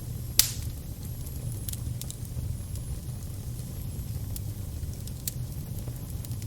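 Crackling fire: a steady low rumble with scattered sharp pops and crackles, one loud pop about half a second in.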